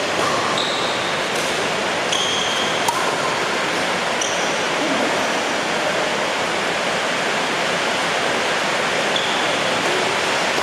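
Heavy rain falling, a steady loud hiss. A few brief high squeaks cut through it in the first half.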